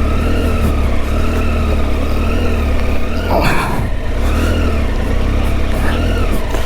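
Triumph Tiger 800's three-cylinder engine revving up and down in short throttle blips, its pitch rising and falling about once a second, as the bike is ridden slowly over slippery ground. A brief rushing burst of noise comes about three and a half seconds in.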